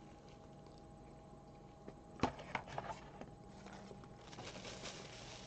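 Sounds of eating a crispy breaded chicken sandwich: a few sharp knocks about two seconds in, the first the loudest, then faint crackling.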